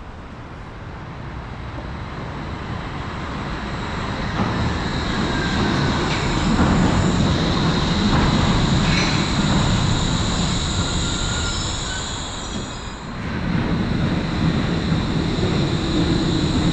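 Wuppertal Schwebebahn suspended monorail train running on its overhead steel rail: a rumble that grows louder over the first several seconds, with a steady high wheel squeal. It dips briefly near the end, then rises again.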